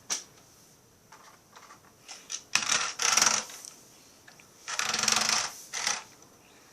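A sharp click, then two bursts of rattling clatter about a second long each, a couple of seconds apart, from small hard objects being handled.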